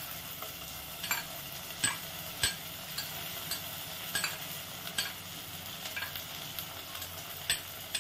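Ground ginger, garlic and cumin paste frying in oil with onion, peas and tomato in a pot: a steady sizzle, with a few light clicks of a cooking utensil against the pot. This is the spice paste going in to be sautéed (kashano).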